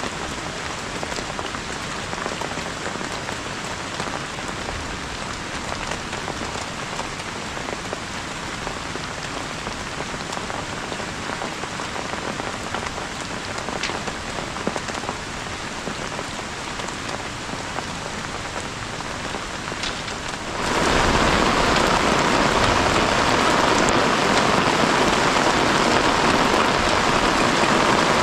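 Heavy rain falling steadily in a dense hiss, jumping suddenly louder about two-thirds of the way through.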